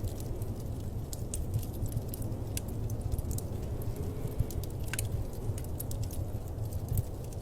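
Wood fire crackling in a fireplace: a steady low rumble under irregular small pops and snaps, with one sharper pop about five seconds in.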